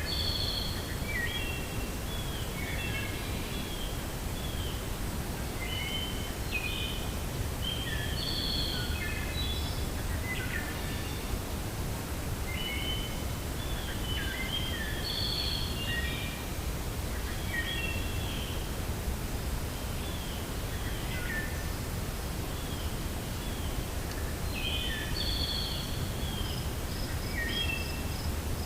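Several small birds chirping in bouts of short, quick notes over a steady low rumble of wind. Near the end a rapid, high-pitched insect trill starts up.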